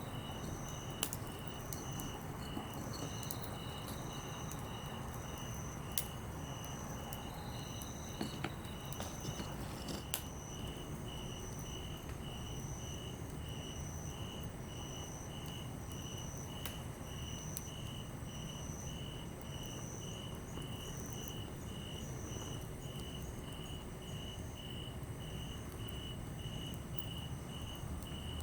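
Insects chirping in steady rhythms, one lower-pitched at about two chirps a second and a higher one at about one a second, over a low rumble. A few sharp crackles from the wood fire come in the first ten seconds.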